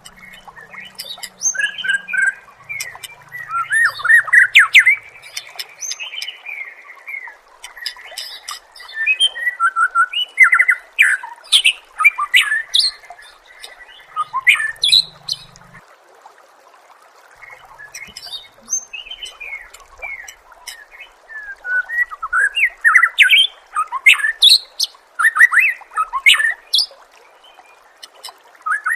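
White-rumped shama (murai batu) singing: loud, varied quick whistles, sweeping notes and sharp chattering calls in phrases of a few seconds each, separated by short pauses, over a faint steady hiss.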